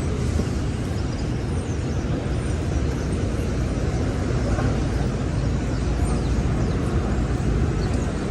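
Steady city street traffic noise: a continuous low rumble of vehicles with an even hiss above it and no single event standing out.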